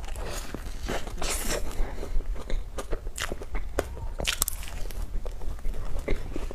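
Close-miked biting and chewing of cream puffs, with many short, irregular crunches and crackles.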